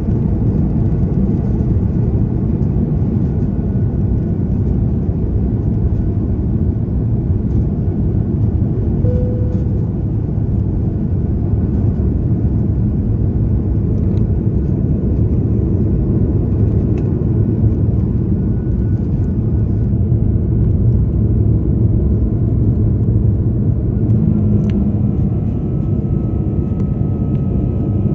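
Airbus A330 airliner heard from inside the cabin: a loud, steady low rumble of engines and airflow, with a faint whine that steps slightly lower near the end.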